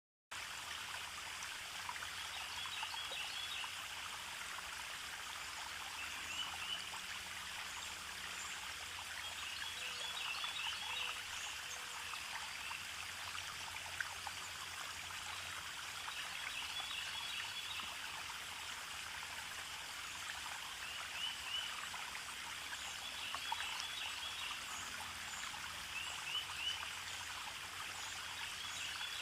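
Steady rushing of running water, like a stream, with short high bird chirps coming back every few seconds.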